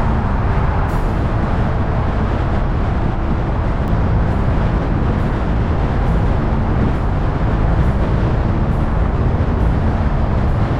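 Steady rumble of a car driving along a road: engine and tyre noise that stays even throughout.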